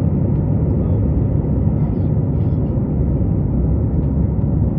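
Steady low rumble of an airliner's cabin noise, the drone of engines and airflow heard from inside the aircraft.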